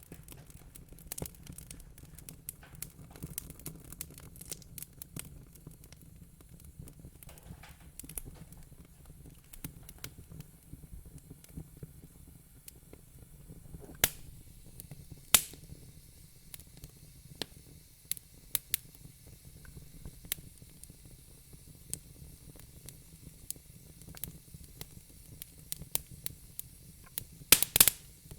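Fire crackling: irregular sharp pops and snaps over a soft low rumble, with two louder pops about halfway through and a quick cluster of them near the end.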